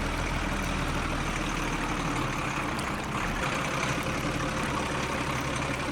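Steady engine idling sound, an even rumble with no change in pitch.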